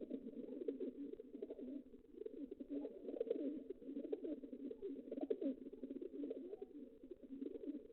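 Many pigeons cooing at once, a dense, continuous chorus of overlapping low coos.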